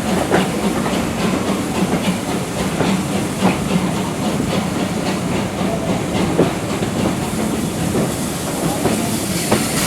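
Steam-hauled heritage train running along the line, its wheels clicking and knocking irregularly over the rails over a steady rumble and hiss.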